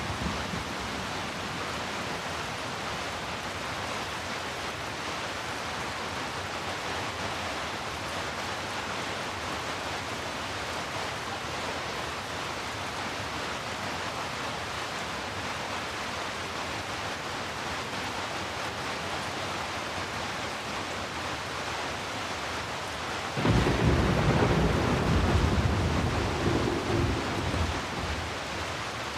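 Steady rain falling, an even hiss. About three-quarters of the way through, a low roll of thunder comes in loud and fades away near the end.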